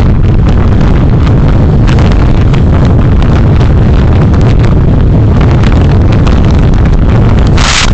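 Car road and wind noise picked up by a dashcam inside the moving car: a loud, steady rumble with scattered clicks and rattles. A short hiss comes near the end.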